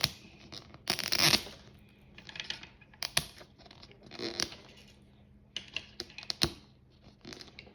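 Small plastic packaging and pieces being handled: scattered clicks and taps, with a short rustle of tearing or crinkling plastic about a second in.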